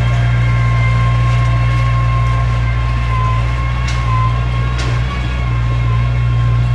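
Heavy earthmoving machine running steadily: a loud, low engine drone with a thin, wavering whine above it and a couple of sharp clicks about two-thirds of the way in.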